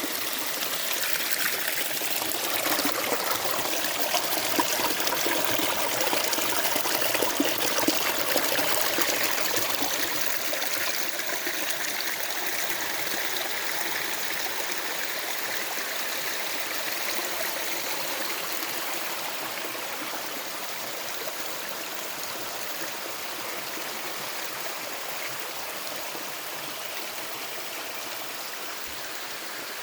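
Stream water running steadily, a little louder for the first several seconds, then easing slightly.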